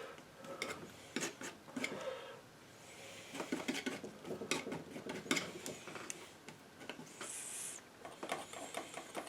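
Painting knife scraping and tapping paint across the painting surface: irregular short scrapes and light clicks, with a brief higher scrape about seven seconds in.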